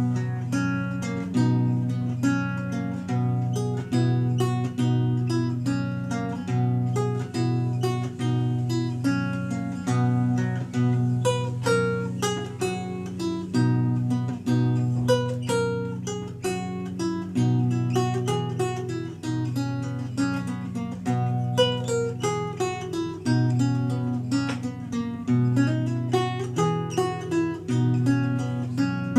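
Renaissance lute played solo: a steady stream of plucked notes, a moving melody over low bass notes that change about once a second.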